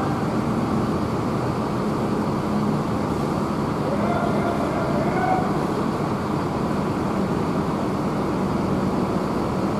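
Diesel bus engine idling with a steady low hum amid terminal traffic noise, with faint distant voices.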